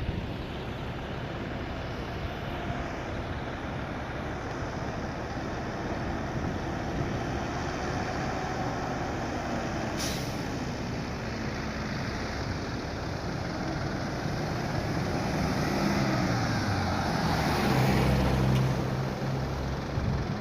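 A heavy truck engine labours on a steep, rain-wet grade. Its pitch rises and falls in the second half and it is loudest near the end. There is one brief sharp hiss or click about halfway through.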